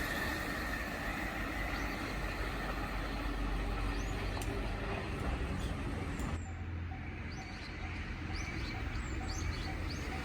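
Small birds chirping several times over a low steady outdoor rumble. About six seconds in the sound changes abruptly, and a faint, evenly repeating tone follows.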